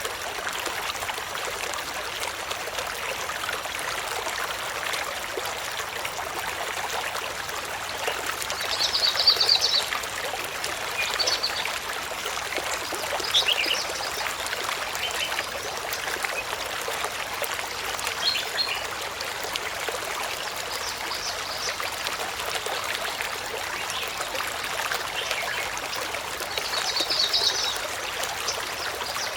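Steady hiss of running water, with high bird chirps over it: a short trilled call about nine seconds in, scattered single chirps after it, and another trill near the end.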